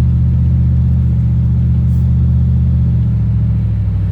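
A car driving, its engine and drivetrain making a steady low drone. The pitch of the drone shifts about three seconds in.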